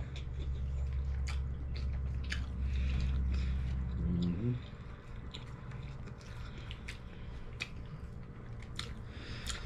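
People chewing croissant breakfast sandwiches, with soft wet mouth clicks scattered throughout. A low rumble runs under it for about the first four and a half seconds and ends with a brief hummed "mm".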